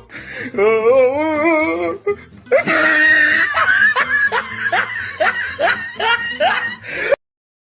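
Loud laughter in rhythmic bursts, about two a second, over background music. It cuts off abruptly near the end.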